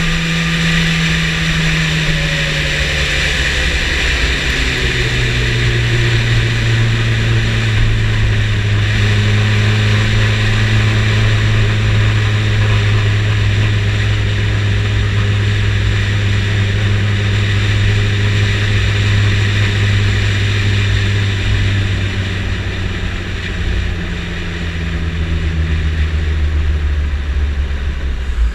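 Yamaha motorcycle engine heard from on board with a steady rushing noise over it. Its pitch falls over the first few seconds, holds steady for a long stretch, then falls again near the end as the bike slows.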